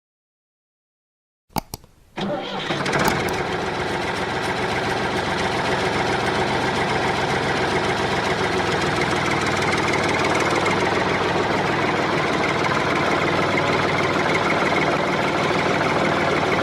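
After a few clicks, an engine starts about two seconds in and then runs steadily at idle until it cuts off at the end.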